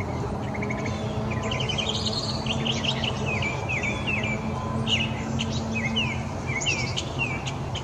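Small songbirds chirping in a rapid string of short, high notes, over a steady low background rumble.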